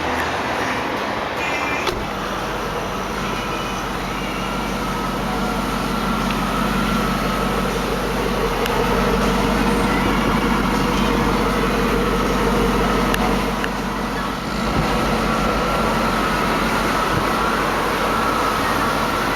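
Steady motor-vehicle noise that grows a little louder about a third of the way in and dips briefly about three quarters of the way through.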